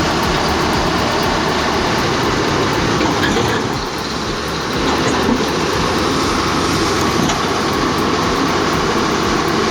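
Hitachi excavator running hard, its diesel engine and steel tracks making a loud, steady mechanical clatter as it drives off a trailer, with a brief dip in level about four seconds in.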